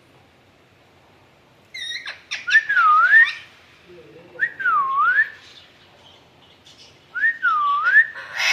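Alexandrine parakeet giving a short call, then three clear whistles a couple of seconds apart, each dipping in pitch and rising back up.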